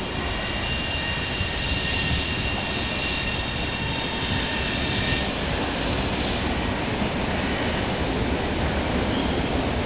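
SBB ETR 610 electric tilting train rolling slowly past: a steady rumble of wheels and running gear, with a high steady whine over it that fades out about five seconds in.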